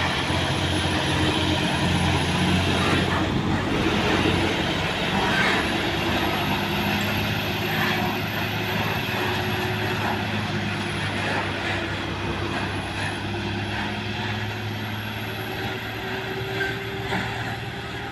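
Heavy diesel truck engine labouring up a steep hill climb, a steady low drone that gradually grows quieter toward the end.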